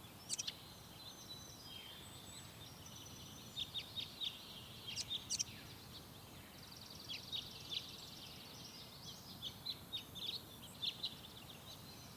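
Several small birds chirping in short, sharp notes in scattered bursts, with a rapid buzzy trill about seven seconds in, over a steady low background hiss of forest ambience.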